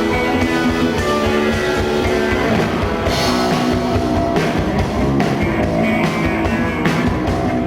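Live rock band playing an instrumental passage: guitars ringing out sustained chords, a cymbal swell about three seconds in, then drum hits coming in at a steady beat.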